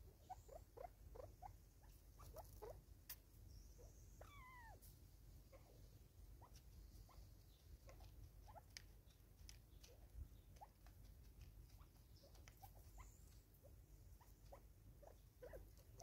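Faint pecking and scratching as game birds feed at a seed-filled plastic bottle feeder. Scattered soft short chirps run throughout, and one falling whistled call comes about four seconds in.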